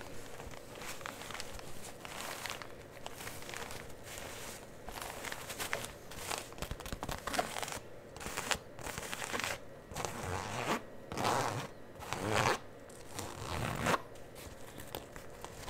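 Close-miked ASMR handling sounds: a run of irregular scratchy, rasping strokes that grow louder and fuller in the second half.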